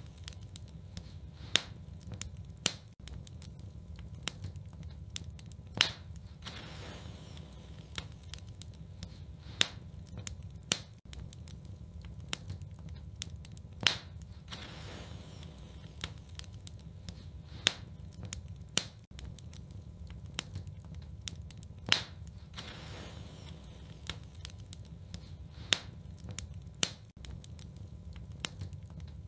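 Wood fire burning in a fireplace: a steady low rumble with continual crackling and sharp pops, the loudest pops coming about every four seconds in an even pattern.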